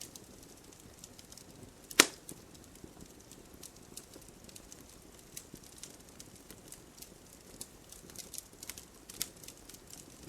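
Campfire wood burning with scattered sharp crackles over a faint hiss. One loud pop comes about two seconds in.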